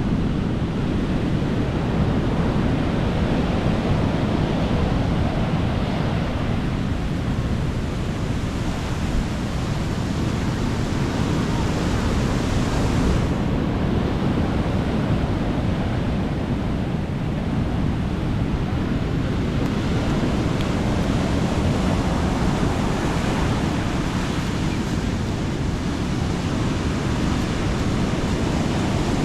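Sea waves washing on the beach with wind rumbling on the microphone, a steady wash of noise.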